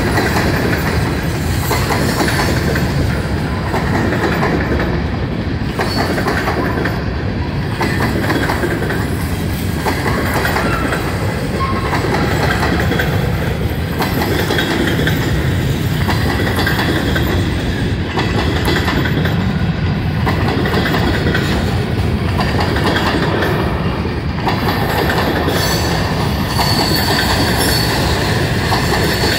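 Empty covered-hopper grain cars of a long freight train rolling past steadily, wheels clicking over the rail joints, with a faint wheel squeal near the end.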